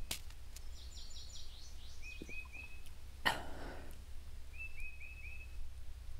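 Small birds chirping outdoors in short quick series of three or four notes, with a run of higher falling chirps near the start. About three seconds in, one short, loud rush of noise cuts across them and fades within about half a second, over a steady low hum.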